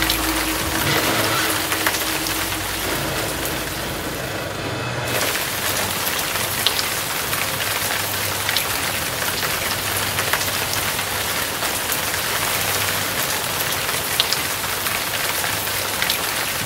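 Dense, even hiss like heavy rain in an ambient electronic soundscape, with a few sharp ticks and a faint low hum in places. The highest part of the hiss drops away for about a second, around four seconds in.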